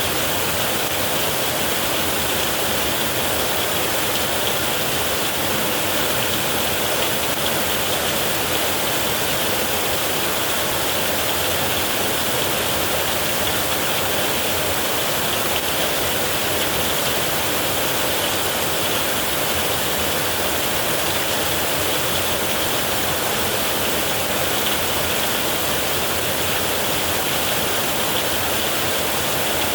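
Heavy rain falling in a steady downpour, an even hiss of water with no thunder claps.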